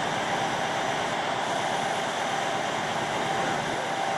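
Train running, with a steady noise and a faint, steady high whine.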